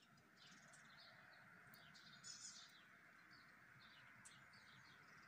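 Near silence, with faint scattered chirps of small birds.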